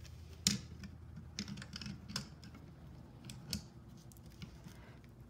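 Irregular metal clicks and taps of pliers gripping and slipping on a seized brake caliper piston from a 1978 Yamaha XS1100, the loudest click about half a second in.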